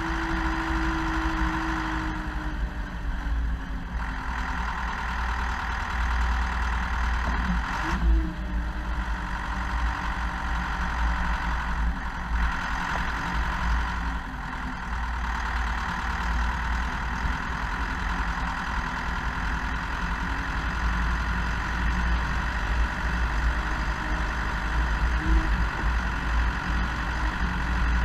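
Zetor Proxima 80 tractor's diesel engine running steadily. Its pitch drops a little in the first few seconds, wavers briefly about a third of the way in, and rises again near the end.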